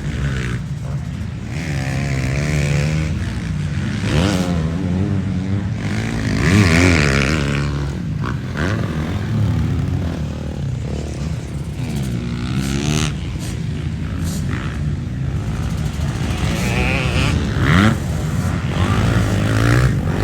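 Several motocross bikes revving hard around the track, their engine notes repeatedly climbing and dropping through gear changes and overlapping one another. They are loudest about six seconds in and again near the end.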